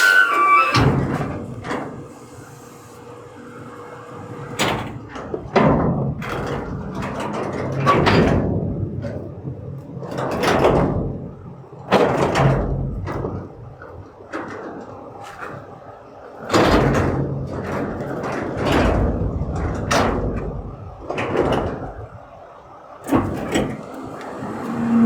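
A series of heavy bangs and slams, about a dozen spread out at irregular intervals, each ringing out briefly, over a low steady rumble.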